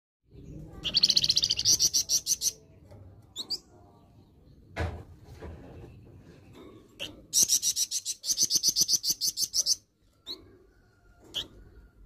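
A caged flamboyan bird giving its harsh call: two bouts of rapid, evenly repeated high notes, each about two seconds long, with a few short single notes between them. A brief knock sounds about five seconds in.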